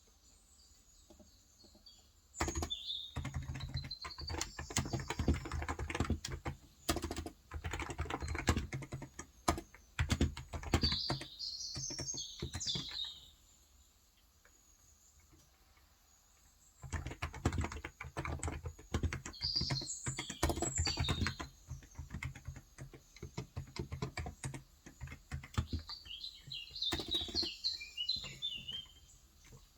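Typing on a Cox Endeavour tenkeyless keyboard with 35 g electro-capacitive (contactless) switches: two long runs of keystrokes with a pause of about three seconds between them. Small birds chirp now and then over the typing.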